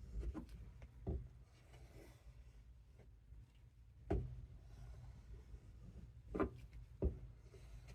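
Knife sharpening work: faint rubbing with a few soft, separate knocks, about five spread across several seconds.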